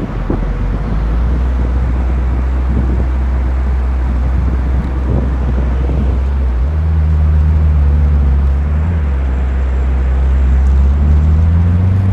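Racing motorcycle engine running close by, steady at a low idle-like pitch at first, stepping up in pitch about two-thirds of the way through, then rising again near the end as it is revved.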